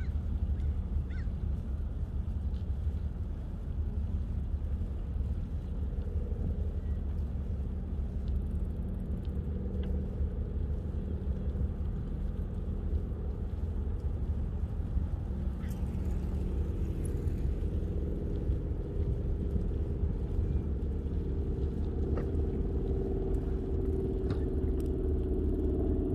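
Steady low rumble of wind buffeting the microphone on a moving bicycle, with a few light clicks. A faint steady hum comes in about a third of the way through and grows louder near the end.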